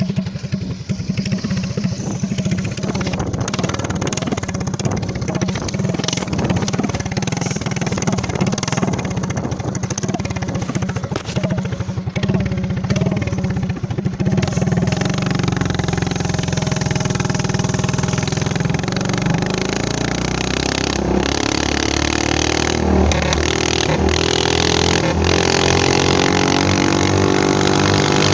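Predator 212 single-cylinder four-stroke engine of a Motovox minibike with a trumpet exhaust, running under way. The engine note changes about halfway through to a clearer, steadier drone that grows slightly louder toward the end.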